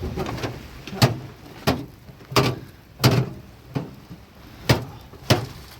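A series of about seven sharp knocks or blows, spaced a little over half a second apart.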